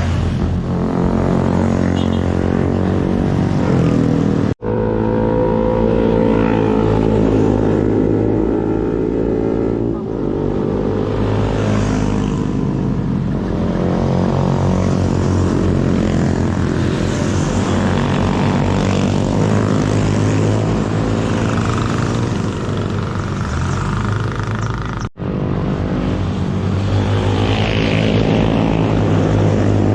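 Motorcycle engine running while riding, its pitch drifting up and down with the throttle. The sound cuts out for an instant twice.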